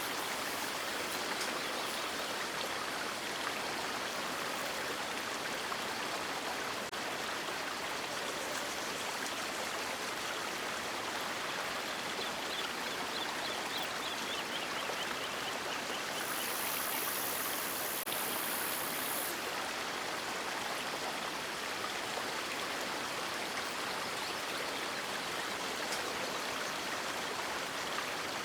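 River water rushing and splashing in a steady, even flow. A brief high-pitched hiss lies over it about two-thirds of the way through.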